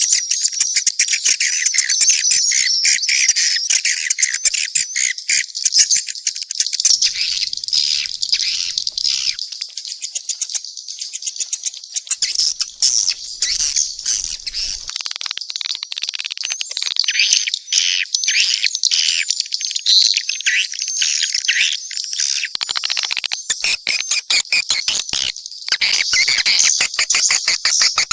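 Swiftlets' mixed lure-call recording: a dense, unbroken chatter of high twittering chirps and rapid clicking calls, the kind played to draw swiftlets into a nesting house.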